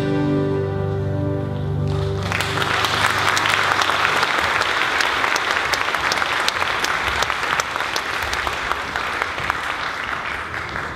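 The last held chord of a sung song fades out. An audience starts applauding about two seconds in, and the clapping thins out near the end.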